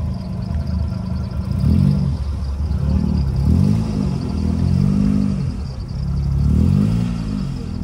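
Car engine idling, then revved in a series of about five blips from about two seconds in, each rising and falling in pitch.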